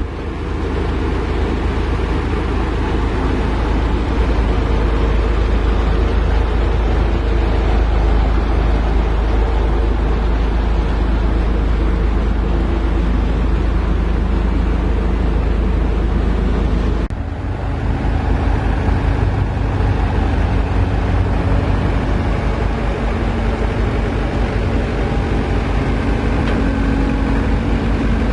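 Heavy diesel machinery engine running with a deep, steady rumble; about seventeen seconds in the sound changes abruptly to a pulsing low throb with a steady hum above it.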